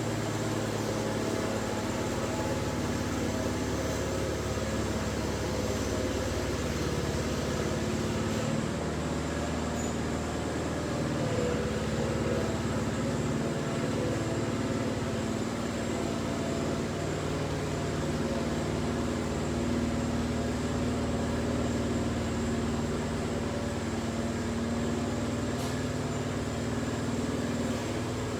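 Small garden tractor engines running steadily, with their pitch shifting a little now and then.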